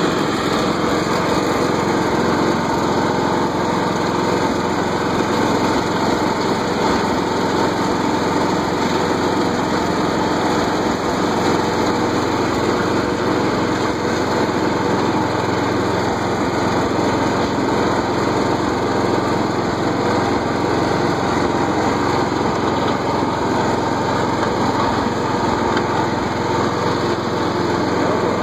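The 14 hp Briggs & Stratton engine of a Simplicity Regent Hydro 14 riding mower runs steadily with the mower deck's blades engaged, mowing.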